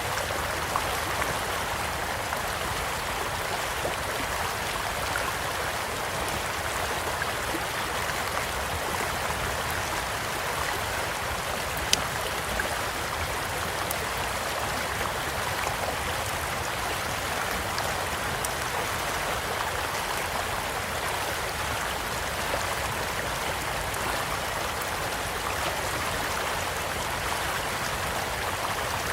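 A small stream flowing steadily over stones, with a few sparse pops and crackles from a wood campfire; the sharpest pop comes about twelve seconds in.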